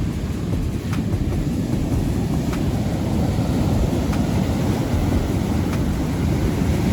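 Wind buffeting the microphone over a steady low rumble of shore-break surf.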